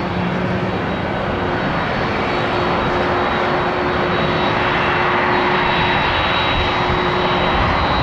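Jet airliner's engines running: a broad rush of jet noise with a steady high turbine whine, growing slightly louder.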